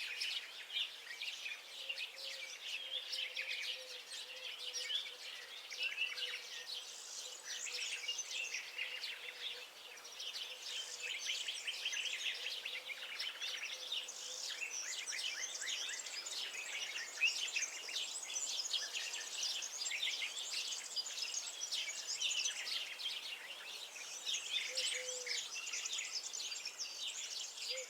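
Many small songbirds chirping and singing at once, a dense overlapping chorus of quick high chirps that never pauses, over a faint steady low tone.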